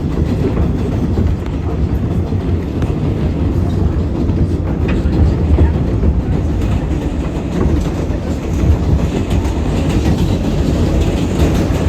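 New York City Subway R188 car running at speed, heard from inside the car: a steady, loud rumble of steel wheels on rail with motor noise, and a few light clicks of wheels over rail joints near the end.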